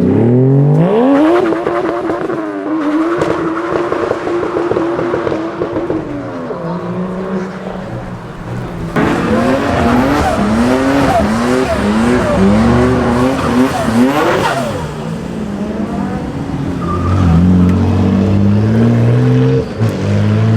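A tuned car's engine revving hard: the pitch climbs fast and is held high for a few seconds, then falls back. It then accelerates through several quick gear changes, each a rising sweep, and the pitch drops sharply as the car passes by.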